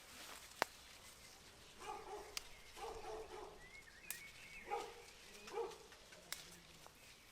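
A dog barking: about four short barks spread over several seconds, with a few sharp clicks between them.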